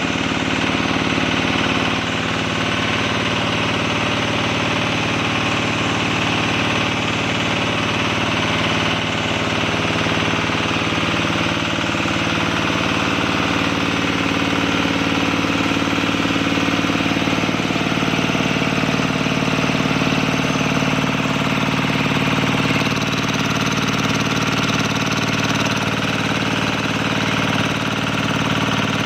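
Kubota diesel engine of an engine-driven Hicom air compressor running steadily.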